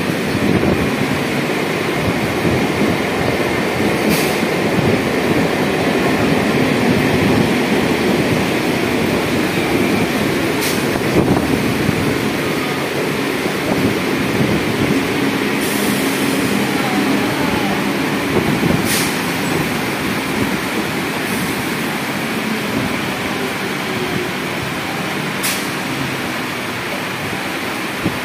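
Electric multiple-unit local train at the platform: a steady rumbling hum, with a few short sharp clicks scattered through it.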